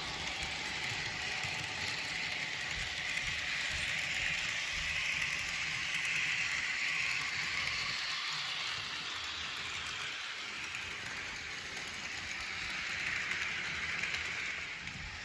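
Model train running along the track: a steady whir of the locomotive's motor and gears with fast, fine clicking from wheels on the rails, swelling louder about midway and again near the end.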